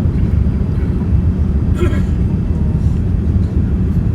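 Boeing 787 Dreamliner heard from inside the cabin: a steady, loud low rumble of engines and airflow, with one short higher-pitched sound about two seconds in.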